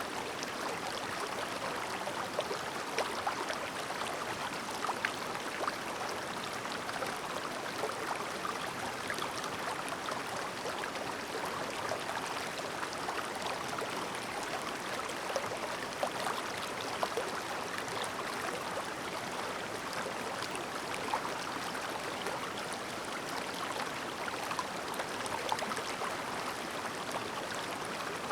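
Clear shallow mountain stream babbling steadily over rocks, an even rush of water dotted with small splashes and gurgles.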